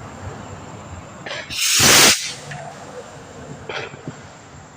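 Small firework missile launching with a short hissing whoosh that swells and fades in about half a second, about a second and a half in.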